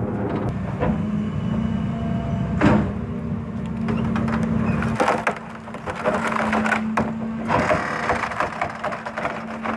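Garbage truck's compactor crushing discarded furniture: wood cracking and splintering in a string of sharp snaps, heaviest in the second half, over a steady mechanical hum.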